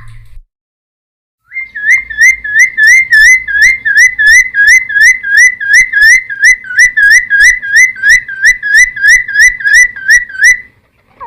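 Cucak timor (friarbird) singing a long, fast run of identical short whistled notes, each a quick upward-hooked slur, about three to four a second, starting after a brief pause and stopping shortly before the end.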